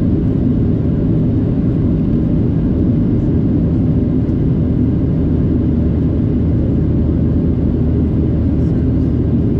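Cabin noise inside a Boeing 737-700 climbing after take-off: a steady roar of the CFM56 jet engines and airflow, a low rumble that holds an even level.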